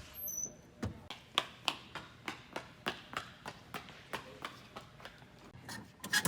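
A steady series of sharp taps, about three a second.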